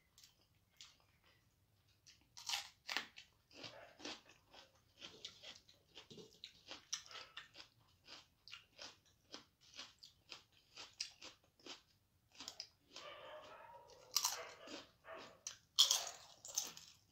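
A person chewing and biting mouthfuls of rice and side dishes eaten by hand, close to the microphone: many short, crisp mouth clicks and smacks, about two or three a second, with a louder cluster of bites near the end.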